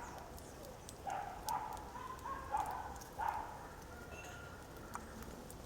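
Series of short animal calls, about five in quick succession, with a few sharp clicks.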